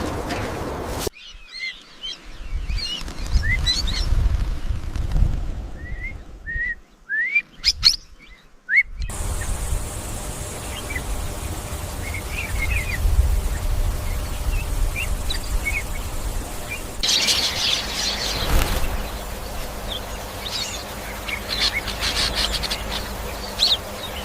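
Small birds chirping in short, quick calls that rise in pitch, scattered throughout over a low rumble. The background changes abruptly a few times, as at edits between shots.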